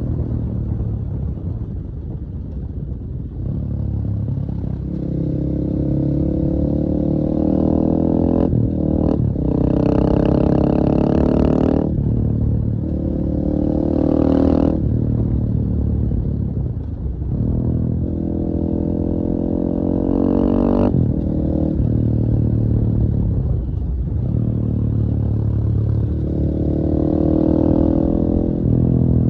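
KTM 450 EXC-F enduro motorcycle's single-cylinder four-stroke engine running under throttle, its pitch climbing and then dropping off sharply several times as the throttle is opened and shut.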